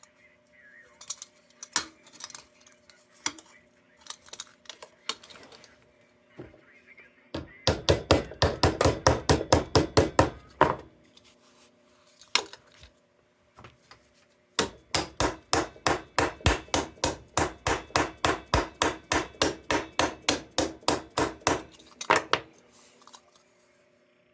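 Hand tool working the sheet metal of an old tin lantern in quick, even strokes, about five a second, in two runs: a short one a third of the way in and a longer one in the second half. Scattered lighter knocks and clinks come before them.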